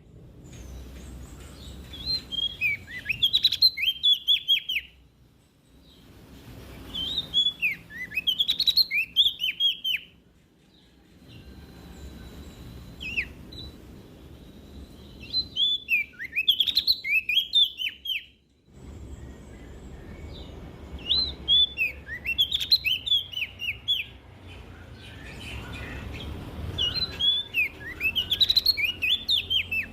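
Prenjak daun (cikrak daun) singing: repeated phrases of rapid, sharp chirping notes that sweep up and down, each phrase a few seconds long with short pauses between, about six phrases in all.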